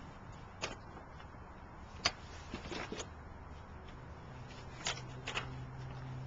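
Irish Setter puppies at play: scattered scuffs and sharp clicks, about five or six in all, the loudest around two seconds in. A low steady hum comes in a little after four seconds.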